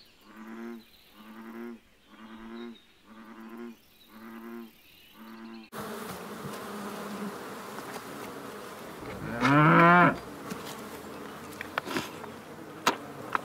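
A run of six short, evenly spaced lowing calls, then steady background noise with one loud cow moo that rises in pitch in the second half, followed by a couple of sharp clicks near the end.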